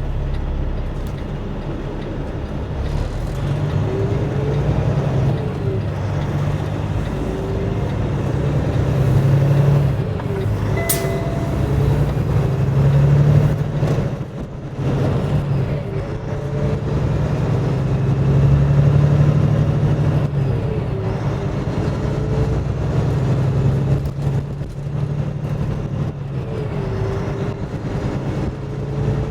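Semi truck's diesel engine running on the road, with its pitch rising and falling several times. A single sharp click comes about eleven seconds in.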